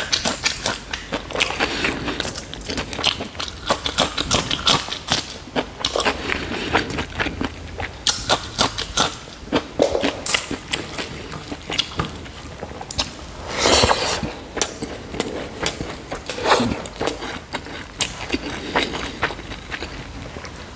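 Close-miked eating: chewing of soft fatty pork curry and rice, with many short, wet mouth smacks and clicks, and one longer, louder noisy sound about two-thirds of the way through.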